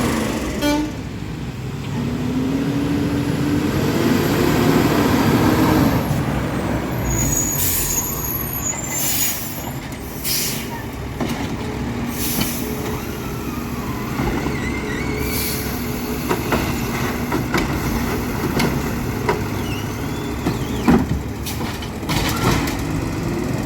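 Freightliner 108SD side-loader garbage truck's engine revving up over the first few seconds, then running with several sharp air-brake hisses, and a single knock near the end.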